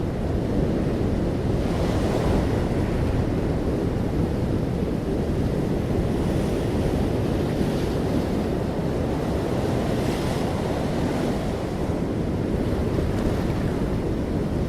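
Ocean waves breaking on the shore: a steady low rush of surf, with the hiss of breaking water swelling several times, at about 2, 8 and 10 seconds in.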